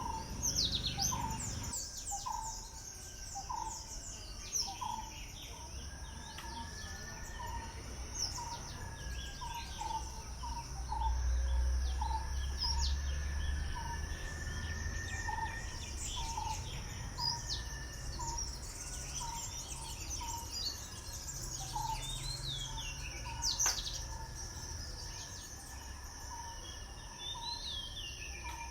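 Morning birdsong: many birds chirping and twittering at once, while one bird repeats a short low call note roughly once a second. Under it run a steady high hum and a low rumble.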